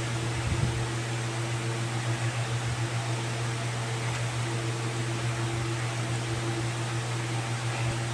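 Steady mechanical hum with an even hiss, like a fan or air conditioner running.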